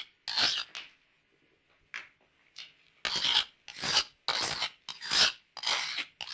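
A series of harsh rasping strokes, a few scattered ones at first, then a steady run of about one and a half strokes a second from about three seconds in.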